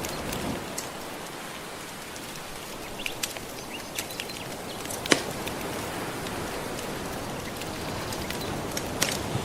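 Soft ocean waves washing steadily under a crackling wood fire, with scattered pops and one sharp, louder pop about five seconds in.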